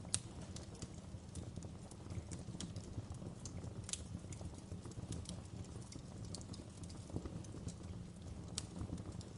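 Wood fire crackling in a fireplace: irregular sharp snaps and pops over a steady low rumble, with the loudest pop just after the start.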